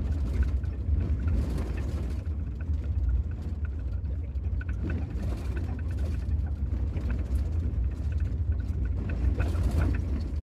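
Camper van driving, a steady low rumble of engine and road noise with faint scattered rattles.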